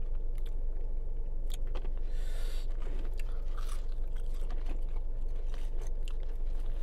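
Close-miked eating: chewing and biting into crisp food, with crunches and small mouth clicks scattered through, over a steady low hum.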